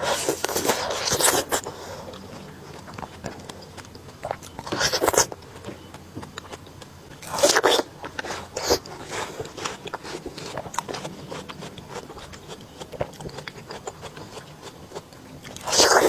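Close-up biting and chewing of crunchy fruit: a few loud crunching bites, about a second in, around five seconds, around seven and a half and near the end, with quieter crackling chews between.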